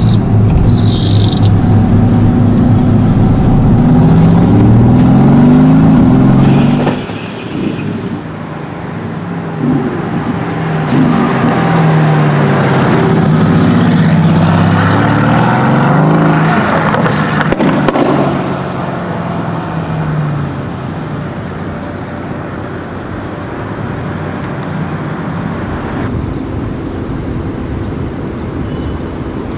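Tuned Mercedes-AMG GT S twin-turbo V8 accelerating hard, its pitch climbing and dropping back as it shifts through the gears. The sound falls away sharply about seven seconds in, returns with more rising and falling revs, then settles quieter and steadier after about eighteen seconds.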